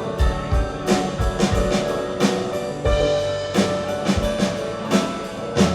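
Live band playing an instrumental passage: a drum kit keeps a steady beat of kick-drum and cymbal hits under sustained keyboard and guitar chords.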